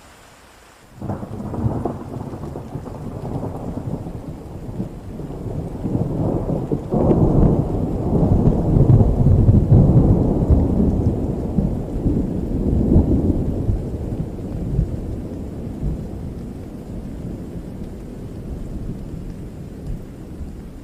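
Thunderstorm: a roll of thunder breaks in suddenly about a second in, a long low rumble that swells to its loudest near the middle and then slowly dies away, over steady rain hiss.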